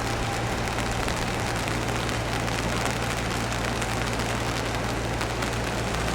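Steady, even noise of water, with a low steady hum beneath it.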